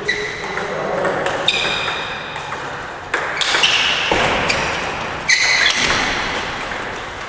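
Table tennis ball hits, several sharp pings about a second and a half apart, each ringing briefly over the steady background noise of a large hall.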